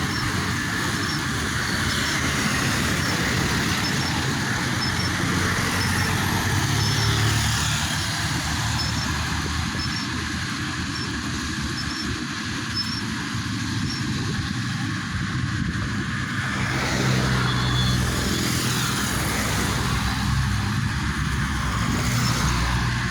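A road vehicle driving, with steady engine and road noise.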